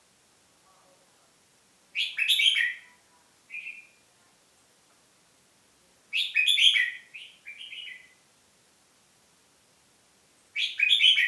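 A songbird singing three short loud phrases about four seconds apart, each followed by one or two shorter, softer notes.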